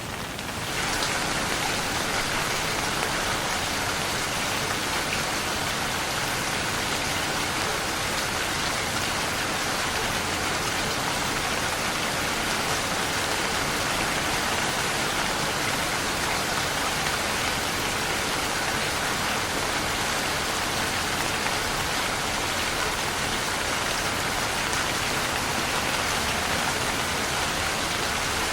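Steady rain falling and pattering on surfaces, an even hiss of drops that grows a little louder about a second in and then holds steady.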